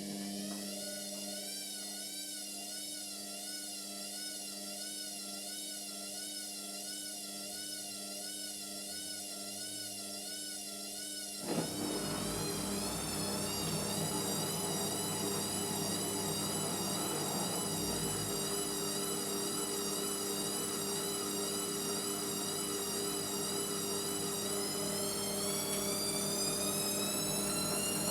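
Indesit MyTime washing machine motor whining as the drum turns, its pitch wavering evenly. About a third of the way in there is a click, and a louder hum with a rushing noise joins in; near the end the whine rises as the drum speeds up.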